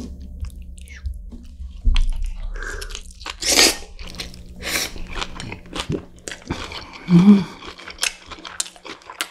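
Close-miked chewing of a big mouthful of rice with doenjang-dressed young radish greens (yeolmu) and thin-sliced pork neck: crunching and wet mouth clicks. A short low hum comes about seven seconds in.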